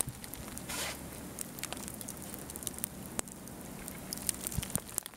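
Falling snow ticking and pattering against the camera in a blizzard: a faint steady hiss with many irregular sharp clicks and crackles.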